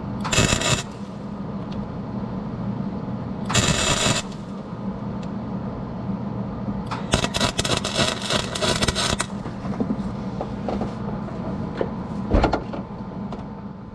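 Short bursts of welding arc crackle, three in all with the longest lasting about two seconds, as weld is laid inside a nut to fuse it onto a snapped serpentine-belt tensioner bolt, over a steady machine hum. A single thump near the end.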